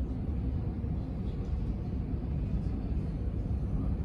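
Jet airliner engine noise: a steady, low-pitched rush with no distinct tones.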